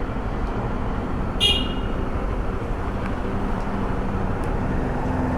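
Steady road traffic noise with a vehicle engine running, and one short horn toot about a second and a half in.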